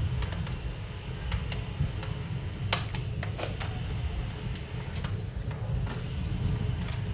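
Wood fire burning in an Invicta 5 fireplace on its first firing with the air inlet open, giving scattered crackles and ticks over a low steady rumble.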